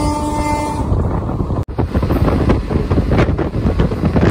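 Locomotive horn of a moving passenger train sounding one steady blast that stops about a second in, over the rush of wind and the run of the wheels on the track. After a short break, the rattling and rumble of the moving coach continue.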